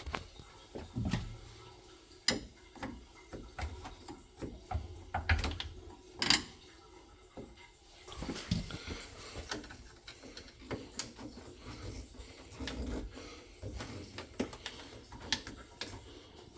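Irregular clicks, knocks and rubbing of things being handled, with two sharper knocks, one about two seconds in and a louder one about six seconds in.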